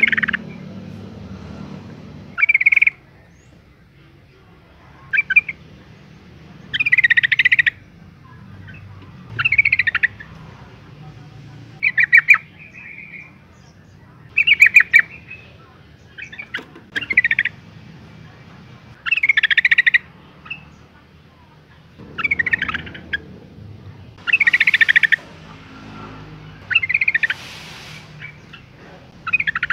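Female yellow-vented bulbul calling: short, bubbly chattering phrases repeated about every two to three seconds, a dozen or so in all. The calls are those of a female in breeding condition calling for a male.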